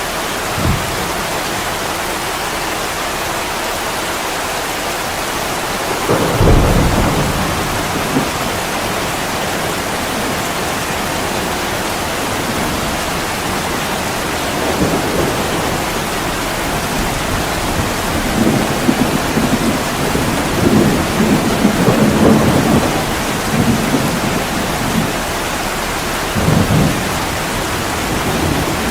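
Heavy rain pouring steadily on a window, with low rolls of thunder about six seconds in, again through much of the second half, and once more near the end.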